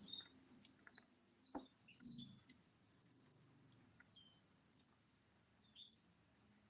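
Faint, scattered short high chirps from a bar-winged prinia (ciblek), a few soft clicks among them in the first two seconds.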